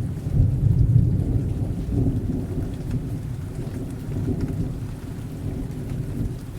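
Rolling thunder rumbling deep and low, loudest in the first second or so and then dying away, over steady rain.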